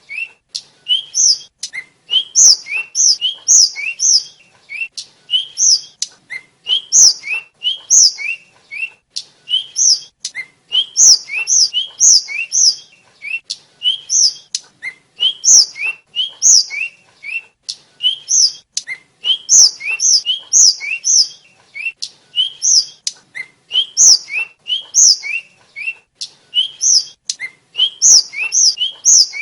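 Tledekan, a small flycatcher, singing a fast, continuous run of short high chirps. The chirps come in quick repeated pairs, a lower rising note followed by a higher one, one to two pairs a second.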